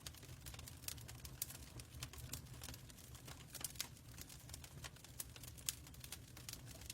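Fireplace crackling: irregular sharp snaps and pops over a steady low rumble.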